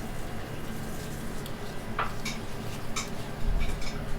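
Light clicks and taps against a pan as seasoning is mixed over raw chicken and vegetables, with a soft low thump about three and a half seconds in.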